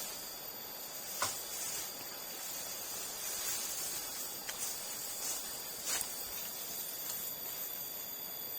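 Outdoor riverside ambience: insects keep up steady high-pitched buzzing over a continuous hiss, with a couple of sharp clicks, about a second in and again near six seconds.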